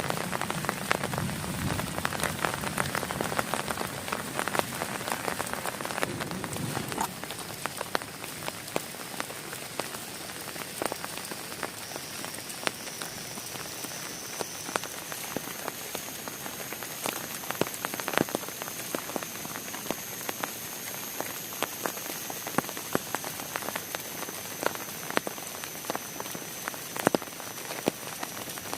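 Heavy rain pattering on a plastic tarp over a tent, with individual drops ticking sharply against it. The patter is fuller and deeper for the first several seconds, then settles a little lighter; a faint high steady tone comes in about halfway.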